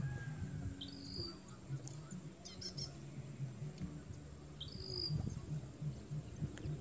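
A small bird calling in the background: a short two-part call, a quick rising note then a higher one, given twice about four seconds apart, with a few quick high chirps in between. An uneven low rumble runs underneath.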